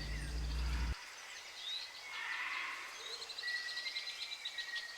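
High-pitched chirping and twittering animal calls in open outdoor ambience, coming as short chirps and then rapid trills in the second half.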